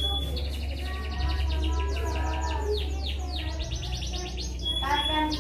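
Cucak cungkok singing a rapid-fire run of sharp, evenly repeated high chirps, the tight volley that bird keepers call "tembakan rapet", followed by a few different lower notes near the end. A steady low hum runs underneath.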